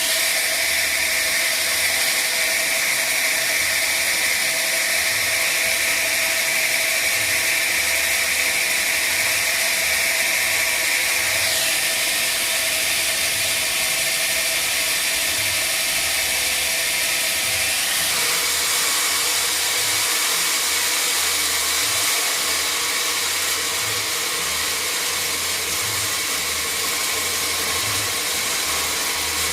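Sawmill saw running steadily with a high whine that drops away about twelve seconds in; the machine noise changes again around eighteen seconds.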